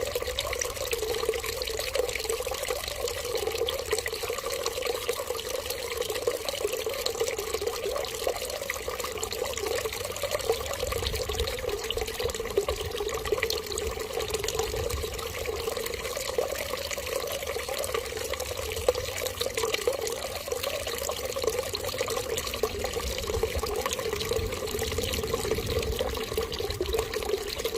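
Water running in a steady, unbroken stream, splashing and trickling without pause.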